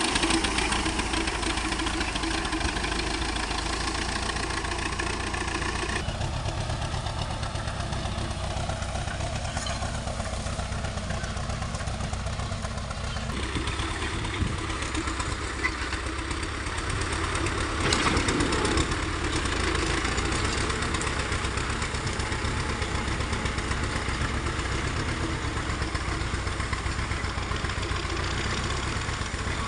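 Tractor engine running steadily while digging a ditch, its tone shifting a few times and briefly louder about eighteen seconds in.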